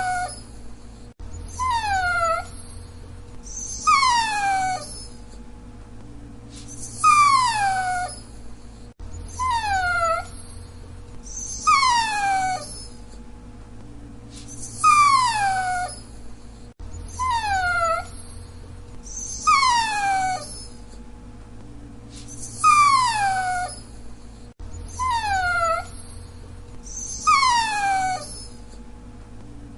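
Dachshund whining: a high whine every second or two, often two close together, each sliding steeply downward in pitch.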